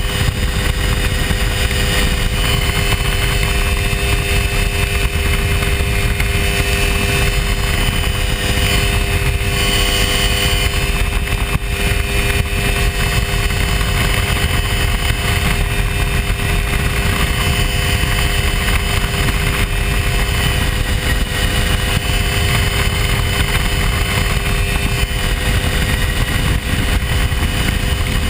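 Hy-Tek Hurricane ultralight airplane's engine running steadily in flight, a constant loud drone with no change in pitch, over a low rush of wind.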